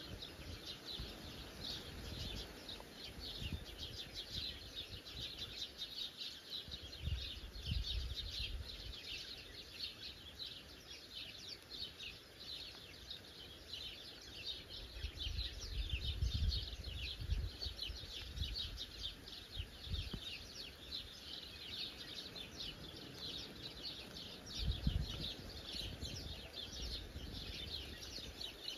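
Many small birds chirping together in a dense, continuous chorus of quick high notes, with a few stretches of low rumble underneath.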